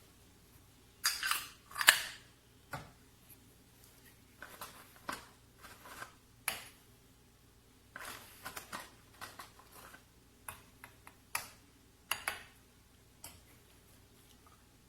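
Irregular handling noises: short sharp clicks and brief rustles or scrapes, some in quick pairs, with the loudest two about a second and two seconds in, over a faint steady hum.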